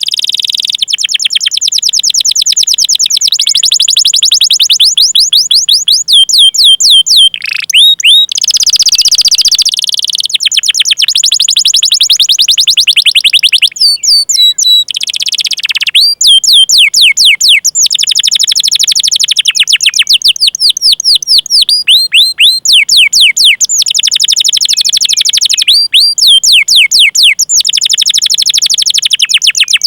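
Domestic canary singing: long rolling trills of rapidly repeated high falling chirps, broken by brief pauses, with a few slower, louder sweeping notes midway.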